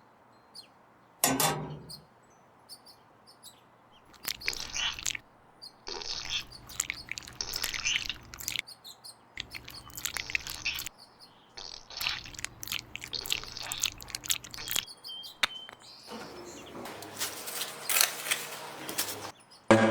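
Birds chirping in short stretches that start and stop abruptly, with a few sharp clicks between them.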